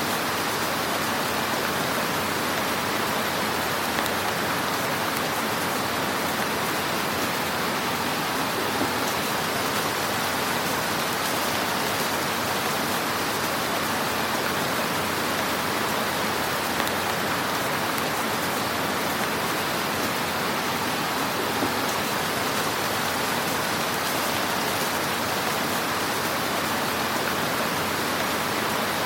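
Wood fire crackling in a fireplace: a steady, dense hiss with a few slightly sharper pops.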